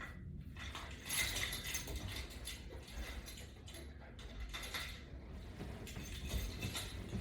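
Faint, irregular clicking and rustling of resistance-band workout gear in use during sit-ups.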